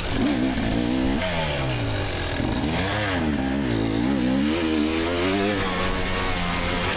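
Two-stroke 300 cc dirt bike engine, a GasGas EX300, revving up and down repeatedly as the rider works the throttle through the course, then running at a steadier pitch near the end.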